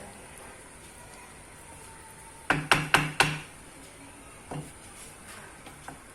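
Kitchen utensil knocking against cookware four times in quick succession, each knock with a brief ring, then one softer knock about two seconds later.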